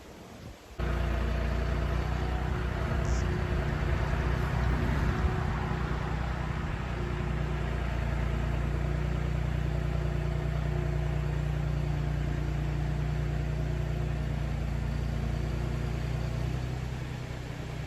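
A motor vehicle's engine idling steadily. It cuts in abruptly about a second in.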